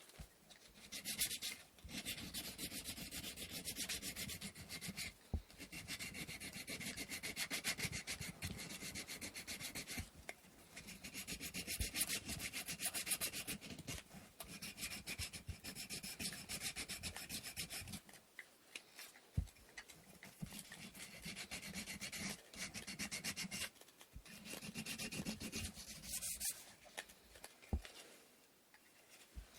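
Hand sanding of wooden inkle loom parts with sandpaper: quick back-and-forth rubbing strokes in runs of several seconds, with short pauses and a few light knocks of the wood between them.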